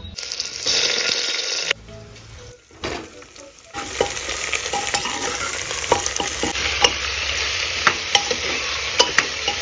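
Oil sizzling in a pressure cooker as bottle gourd pieces and red lentils are stirred with a spatula, with scattered clicks of the spatula against the pot. The sizzle is steady from about four seconds in, after a quieter stretch.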